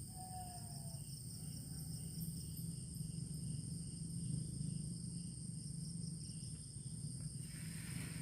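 Night insects such as crickets trilling steadily in high, continuous tones, with another chirping in pulses about twice a second. Under them runs a steady low rumble, and a short hiss comes near the end.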